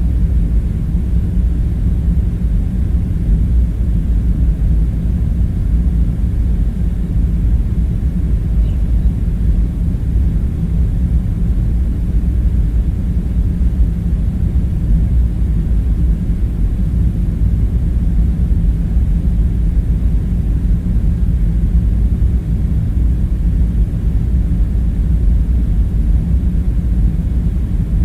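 A steady low rumbling drone with a faint hum in it, unchanging and with no distinct events: the background drone of an ambience soundscape.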